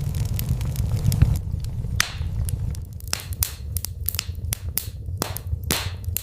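Wood fire in a fireplace crackling: irregular sharp snaps and pops, a couple of them louder, over a low steady rumble of the flames that is heavier in the first second or so.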